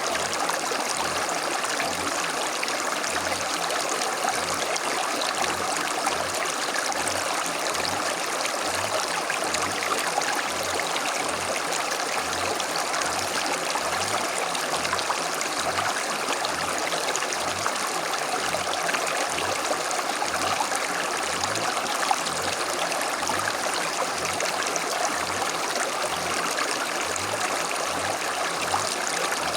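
Creek water flowing steadily, an even rushing and trickling.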